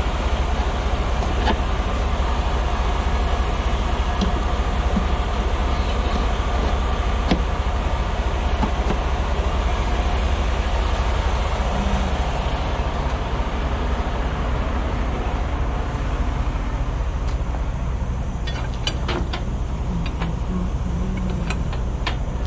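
Tractor-trailer's diesel engine running steadily, with a deep constant rumble. A few sharp clicks near the end.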